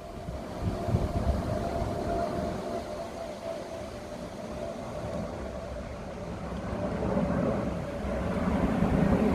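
Low, steady engine rumble with a faint steady hum above it, swelling somewhat toward the end.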